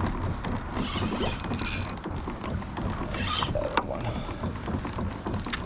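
A fishing reel clicking in a fast, even run near the end, over a low steady rumble.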